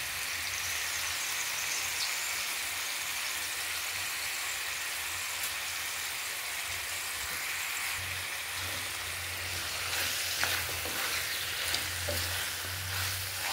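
Chicken pieces with onions, ginger-garlic paste and spices frying in oil in a pan, a steady sizzle. A few stirring knocks and scrapes come near the end.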